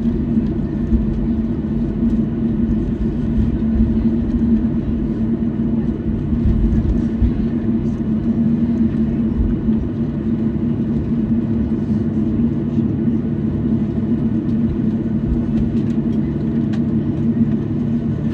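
Steady cabin noise inside a Boeing 737-800 on the ground after landing: a continuous low drone with a steady hum over a rumble.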